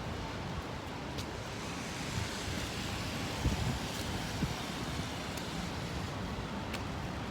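City street traffic noise in strong wind, with wind buffeting the microphone in low rumbles that peak about halfway through.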